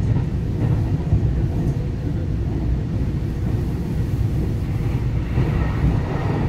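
Cabin noise of a Taiwan Railways EMU900 electric multiple unit running at speed: a steady low rumble from the wheels and running gear, with a rise in higher hiss about five seconds in.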